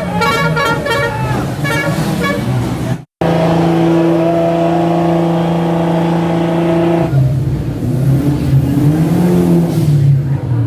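Car sounds in quick cuts. The first is an engine rising and falling in pitch as it revs. The second is a long, steady car horn lasting about four seconds. The last is engines running unevenly.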